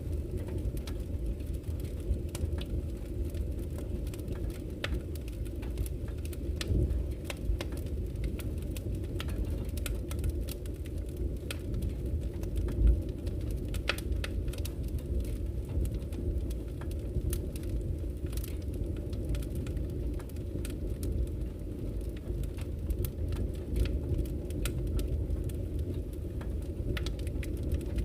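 Wood fire burning in a fireplace: a steady low rumble of the flames with frequent scattered crackles and pops of the burning logs, one louder pop about halfway through.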